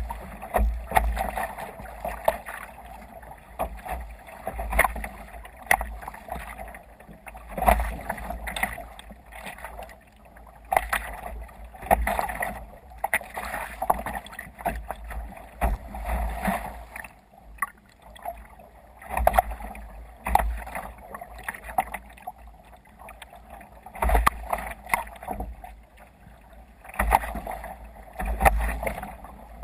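Water splashing and rushing against a kayak's hull as it sails through waves, coming in irregular rushes every second or two.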